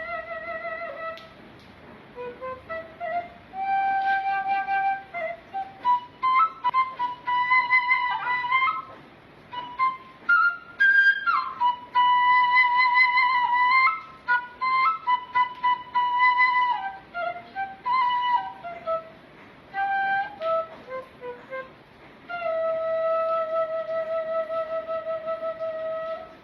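A seruling, an Indonesian bamboo flute, playing a slow melody of held notes with short breaks between phrases. Near the end comes a long wavering note.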